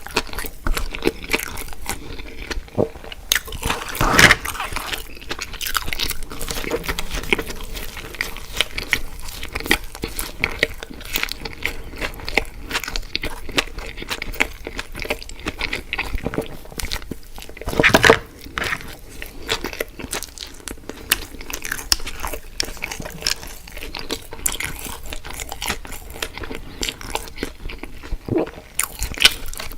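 Close-miked eating: crunchy bites and chewing with many small wet mouth clicks, with two louder bites about four seconds in and around eighteen seconds.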